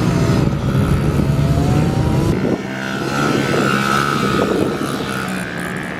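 A small dirt bike engine running and revving, its pitch rising and falling with the throttle.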